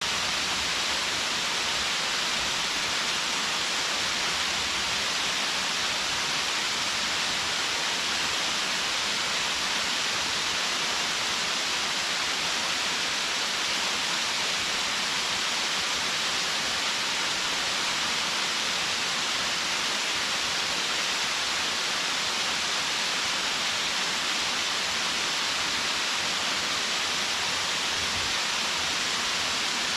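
Waterfall pouring, a steady hiss of falling water with no change over time.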